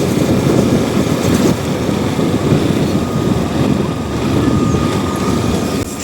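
A vehicle driving along, giving a steady, loud rumble of engine and road noise.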